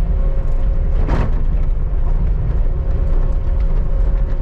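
Skid steer engine running steadily, heard from inside the cab as a deep, even drone with a faint steady whine above it. A brief louder noise cuts through about a second in.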